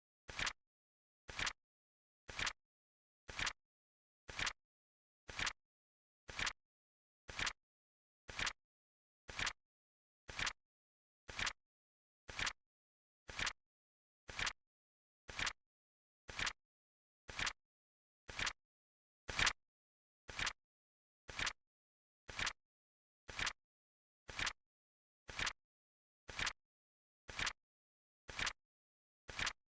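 Flip clock timer sound effect: a sharp click once a second, evenly spaced, with dead silence between. One click about two-thirds of the way through is a little louder.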